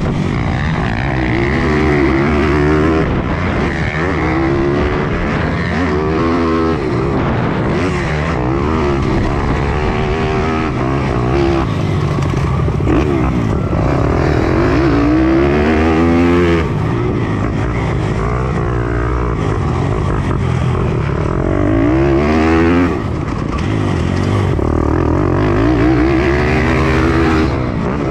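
Pit bike engine at racing speed, heard from on board: the revs climb and fall again and again through the corners and jumps, with a few sudden drops in level, as when the throttle is chopped.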